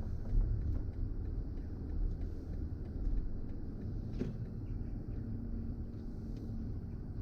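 Low steady rumble of a BMW i4 M50 electric car driving, mostly road and tyre noise, with a single short click about four seconds in.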